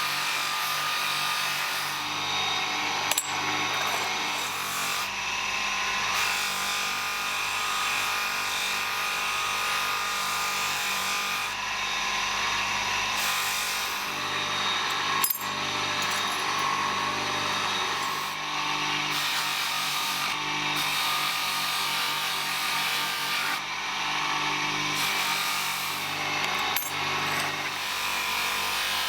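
Power tool sanding wood: a steady motor whine under a rough grinding noise that changes every second or two as the work is pressed and moved, with a few sharp clicks.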